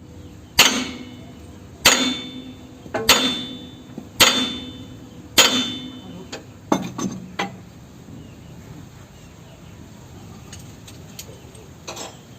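Hammer blows on metal: five hard strikes about a second and a bit apart, each ringing briefly. A few lighter knocks follow about seven seconds in, and one faint knock comes near the end.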